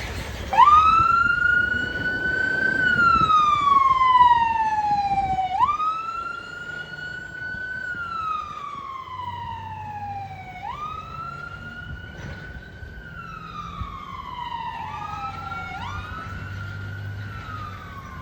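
Emergency vehicle siren on the wail setting. It sweeps up quickly, then falls slowly, repeating about every five seconds, over a low engine hum. A second rising sweep overlaps the first near the end.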